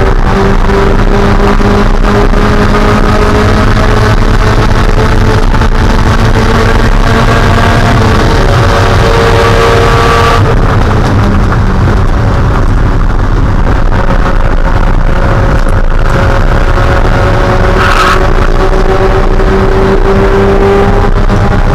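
Spec Miata's 1.8-litre four-cylinder engine running hard on track, its pitch climbing slowly under full throttle. About ten seconds in the note drops and softens as the throttle comes off, then it steadies and climbs again, with a brief burst of noise near the end.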